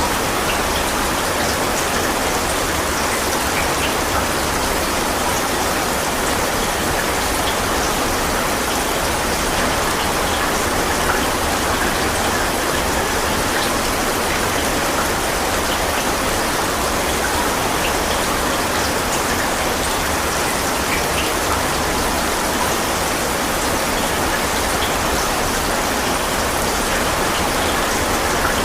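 Steady rain falling, a dense even hiss with scattered small ticks of individual drops striking a surface.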